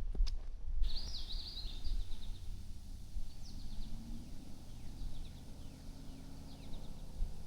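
A small songbird sings a quick warbling phrase about a second in, followed by a series of faint, short down-slurred notes, over the low thuds and rumble of someone walking on a trail.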